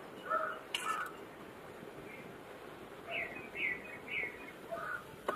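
Birds chirping: a few short calls, with three quick ones close together about three seconds in. A couple of light clicks come about a second in and near the end.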